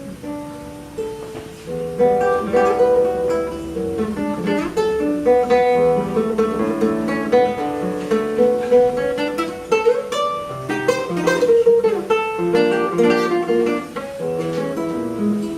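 Solo classical guitar playing a jazz-style competition piece: plucked melody notes over bass and chords, with a few quick strummed chords a little past the middle.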